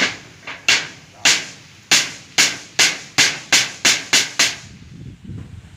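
Hammer blows, about a dozen sharp strikes that quicken as they go, stopping about four and a half seconds in.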